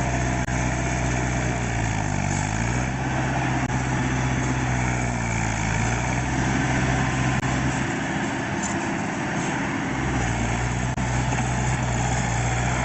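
Vehicle engine running with a steady low drone. Its pitch dips and recovers twice in the first few seconds.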